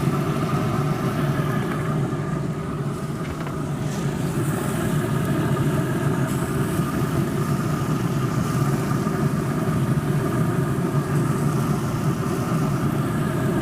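Steady machine drone like a motor running at idle: an even low hum with several steady tones over it, unchanging throughout.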